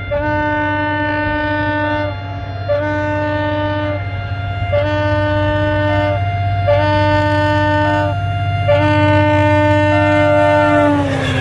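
A diesel locomotive's multi-tone horn sounds in long blasts, switching back and forth between two chords every second or two, over the steady low running of the engine. Near the end the horn slides down in pitch and stops.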